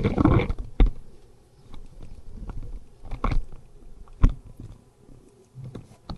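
Handling noise as the recording phone is picked up and moved back: rustling and rubbing with scattered knocks, the sharpest about four seconds in.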